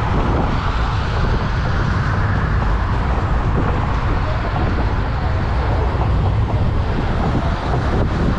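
A 1924 steam train running along, heard from aboard: a steady, low running noise, with road traffic passing alongside.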